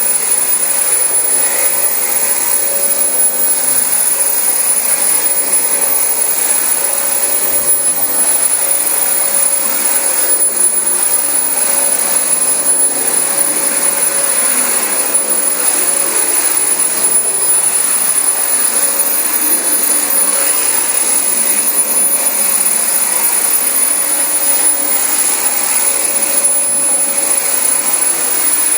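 Dyson DC25 upright vacuum cleaner running steadily over carpet: a constant rush of air with a high-pitched whine.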